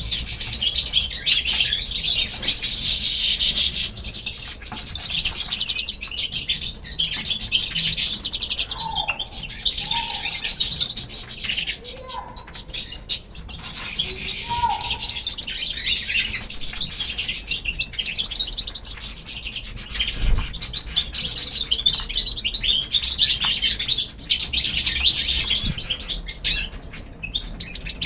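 A flock of small pet birds chirping and chattering without a break, with a few short lower calls that slide downward in the middle.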